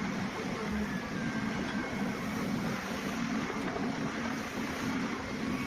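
Heavy machine's diesel engine running steadily under load while its claw digs out a stump.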